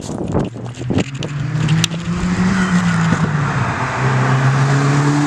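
Muffler-deleted Hyundai Genesis Coupe 2.0T, a turbocharged four-cylinder, approaching on the road with its unmuffled exhaust drone. The engine note rises slightly in pitch, eases back, and gets louder about four seconds in as the car nears.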